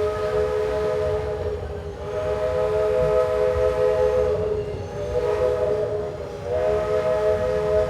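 Walt Disney World Railroad steam locomotive's chime whistle blowing four long blasts, each a chord of several notes, with short breaks between them, over the low rumble of the moving train.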